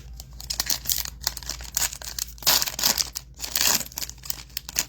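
Trading-card pack wrapper crinkling and cards being handled, a string of short scratchy rustles, busiest in the middle.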